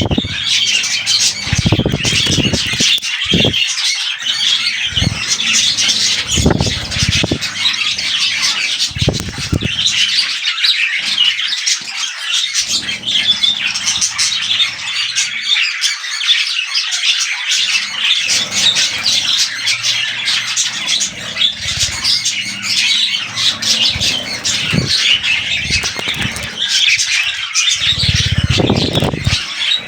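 Budgerigars chattering and squawking continuously in dense, overlapping high-pitched calls, with occasional soft low thumps.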